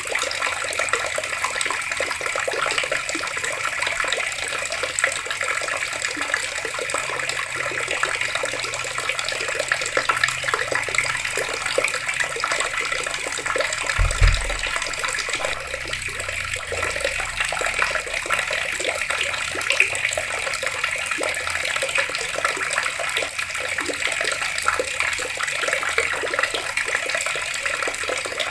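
Water taps running steadily, an even rush of falling and splashing water. A brief low thump about halfway through.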